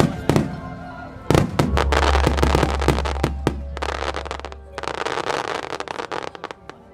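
Aerial firework shells bursting: two sharp bangs, then a dense crackle of many small reports that thins out and fades near the end.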